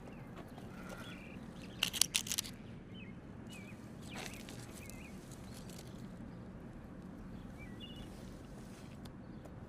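Rural outdoor ambience with small birds giving short chirps now and then, and a quick run of sharp knocks about two seconds in.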